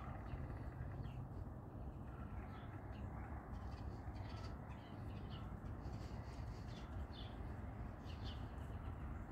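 Faint outdoor ambience: scattered short bird calls, spaced irregularly, over a steady low rumble.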